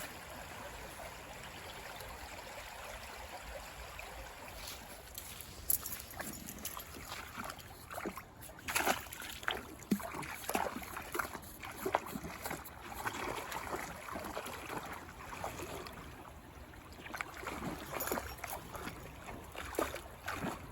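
Brook water running as a steady rush, with irregular footsteps crunching on the trail from about six seconds in.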